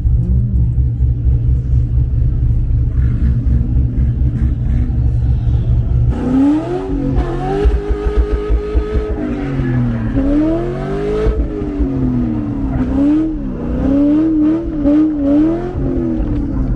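A car engine droning steadily at low revs, then from about six seconds in revving up and down over and over, its pitch climbing and dropping every second or two, as a drift car does on track.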